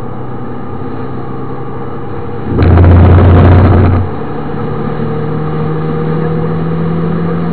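MINI Cooper S engine heard from inside the car at speed, holding a steady note, then pulling with a slowly rising pitch as it accelerates. About two and a half seconds in, a loud rough rumble lasting over a second drowns the engine out.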